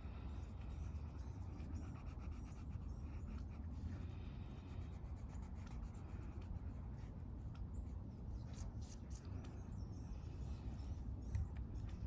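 Coloring on paper: quick, scratchy strokes of a coloring tool, coming thicker a few seconds before the end, over a steady low outdoor rumble.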